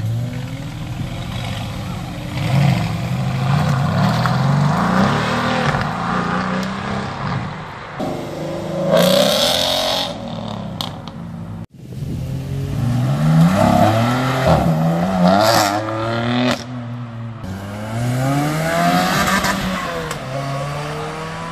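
Sports car engines accelerating hard away one after another, each revving up, dropping back at a gear change and climbing again. There is an abrupt break a little before the middle, between one car and the next.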